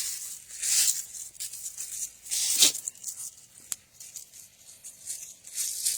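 Dry leaves and brush rustling and crunching underfoot in a few uneven bursts, with one sharp click about midway.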